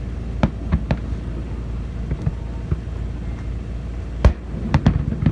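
Fireworks going off: a few sharp bangs near the start, then a louder cluster of three about four seconds in, over a steady low rumble.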